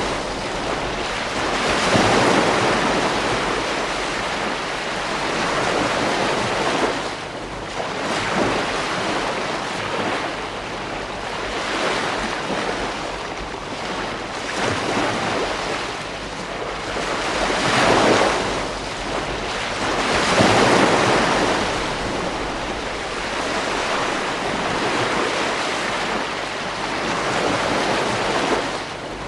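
Ocean waves breaking on a beach, a steady wash of surf that swells and eases every few seconds, with the biggest breakers about 2, 18 and 21 seconds in.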